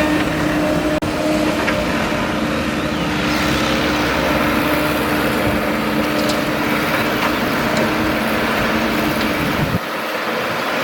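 Excavator's diesel engine running steadily as it digs, a steady mechanical hum with a brief drop about a second in.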